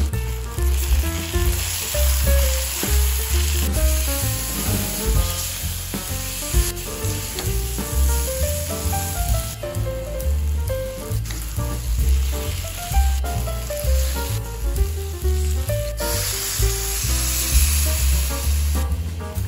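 Onions, tomatoes and spices frying in hot oil in a steel kadai, sizzling steadily. The sizzle drops back for several seconds from about ten seconds in and comes back near the end. Background music with a bass line plays underneath.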